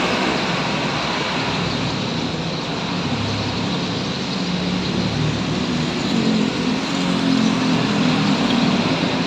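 Road traffic: vehicle engines running and passing steadily, with an engine hum growing a little louder in the second half.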